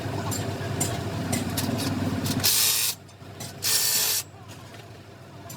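Two short, loud bursts of hissing air, about a second apart, after a steady low hum.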